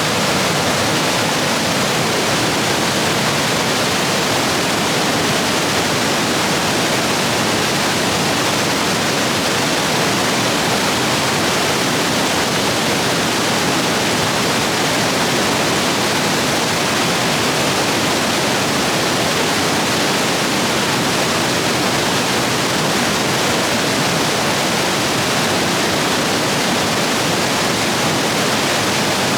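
Rapids rushing steadily in a rain-swollen stream, a dense even roar of white water.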